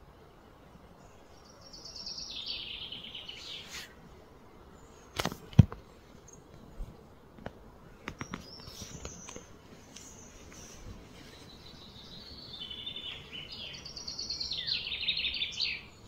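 A songbird sings two rapid, trilled phrases that step down in pitch, about two seconds in and again near the end, over faint outdoor background noise. Two sharp clicks come between the phrases, about five seconds in, and they are the loudest sounds.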